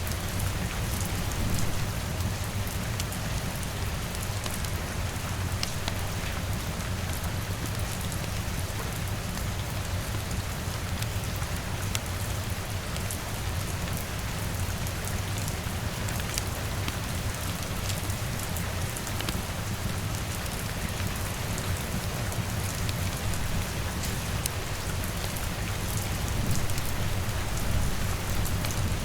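Steady rain falling, with scattered sharp crackles from a wood fire and a constant low rumble underneath.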